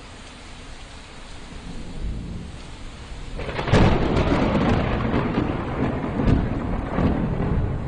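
Steady rain falling, then a thunderclap breaks about three and a half seconds in and rumbles on to the end, with several sharp cracks in the rumble.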